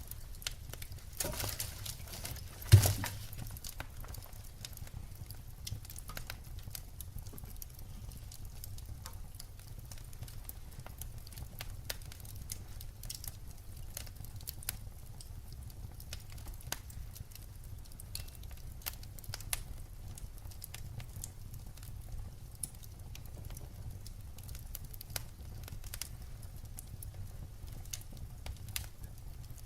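Wood fire crackling: scattered snaps and pops over a low rumble, with one loud pop about three seconds in.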